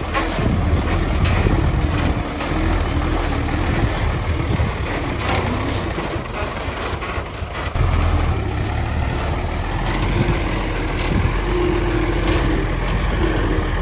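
Heavy construction machinery's diesel engine running steadily, with a few short knocks partway through.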